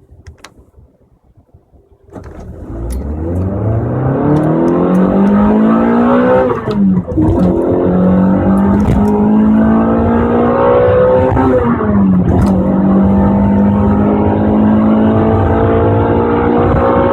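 Toyota 2ZZ-GE 1.8-litre four-cylinder engine and exhaust of a Corolla Altis accelerating hard through the gears, starting about two seconds in. Its note climbs steadily in pitch, with a short dip at each of two gear changes, and ends on a high, still-rising note.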